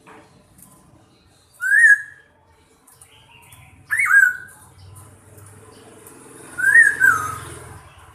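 A bird giving loud whistled calls, three times, each a short whistle that rises and then falls, with faint high chirps between them.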